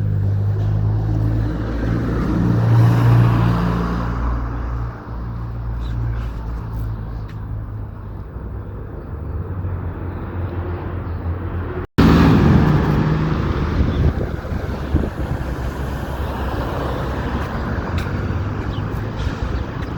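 City street traffic: cars and other motor vehicles running and passing, with a steady low engine hum. The sound drops out for an instant about twelve seconds in, then carries on.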